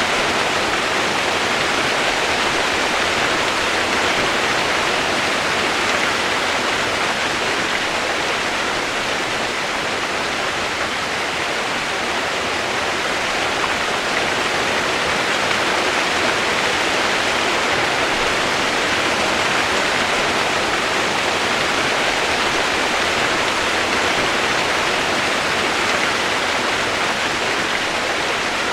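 Steady rushing water: an even, unbroken hiss that holds the same level throughout.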